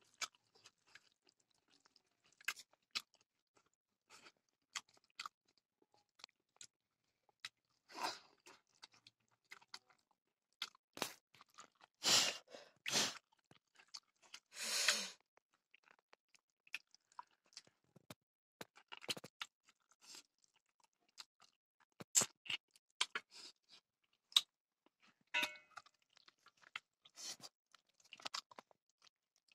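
Close-up chewing and mouth sounds of a person eating pork leg and rice by hand: scattered wet clicks and smacks, with a few louder bites around the middle. Fingers mix the food on a steel plate between mouthfuls.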